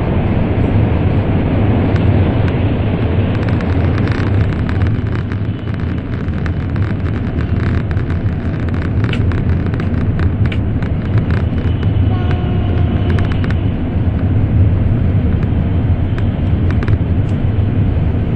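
Interior running noise of an N700 series Shinkansen at speed, heard from inside the passenger cabin: a steady low rumble with scattered faint clicks.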